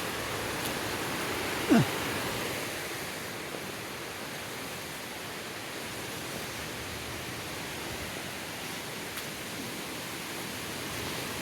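Creek rapids rushing steadily, a constant hiss of white water. About two seconds in, a short sound drops sharply in pitch.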